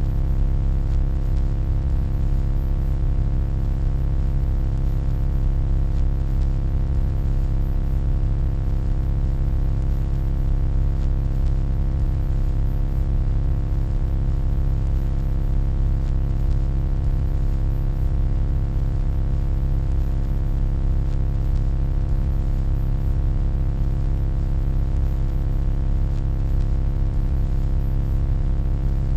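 Steady, unchanging electronic hum: a deep low drone with a stack of faint steady overtones above it, with no changes or breaks.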